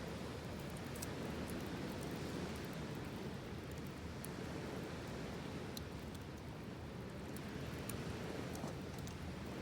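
Steady low rushing outdoor noise with scattered faint ticks and small crackles.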